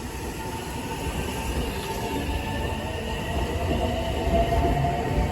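Electric train running on rails, a low rumble under a whine that slowly rises in pitch and grows louder.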